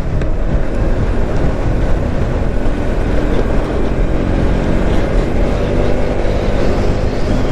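Motorcycle engine running steadily under way, with heavy wind rush on the microphone.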